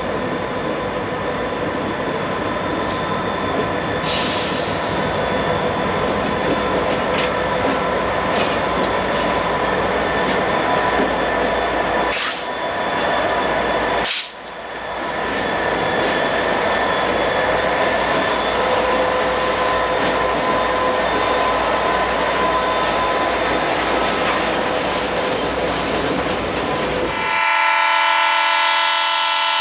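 Diesel freight locomotives and rail cars rolling past close by: a steady, loud running noise with several steady high tones over it, broken by two abrupt cuts about 12 and 14 seconds in. About two seconds before the end, a locomotive horn sounds a steady chord of several notes.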